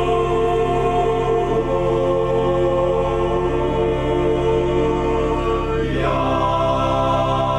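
Choir singing sacred polyphony in long held chords, changing chord about a second and a half in and again about six seconds in.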